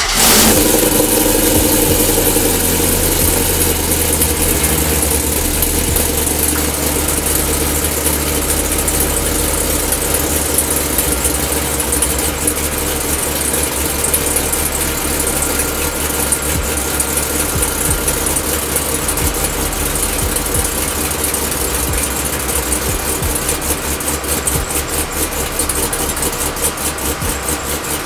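A Chevrolet LS 5.3-litre V8 with a Comp Cams Thumper cam, just caught on a cold start and running steadily at a fast idle. It is loudest in the first second, then gradually settles.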